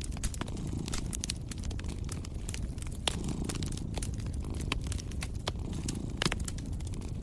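Wood fire crackling in a fireplace, with irregular sharp pops, the loudest about six seconds in, over a low steady rumble of a cat purring.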